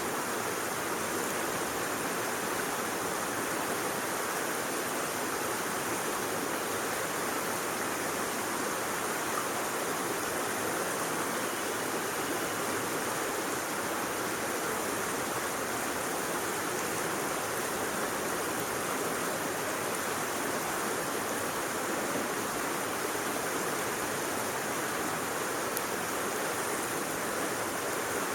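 Steady rushing of a stream, an even unbroken wash of water noise.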